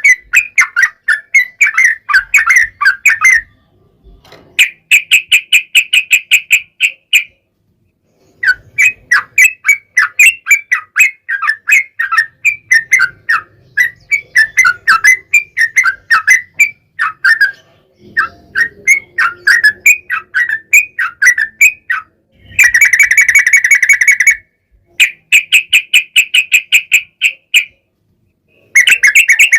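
Yellow-vented bulbul (trucukan) singing: loud bouts of quick chattering notes a few seconds long, with short pauses between them. Several later bouts are fast, even trills.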